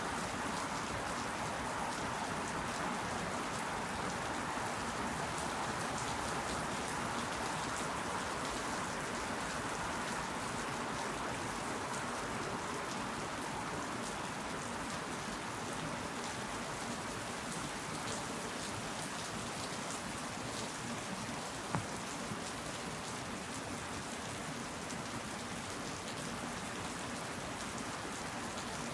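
Steady rain falling, a dense patter of individual drops over an even hiss, with one sharper tap about three-quarters of the way through.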